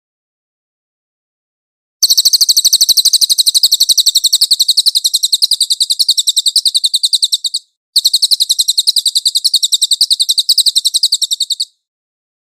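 A cililin bird singing two long, rapid, high-pitched trills of fast-repeated notes. The first begins about two seconds in and the second follows after a brief gap, each lasting four to five seconds.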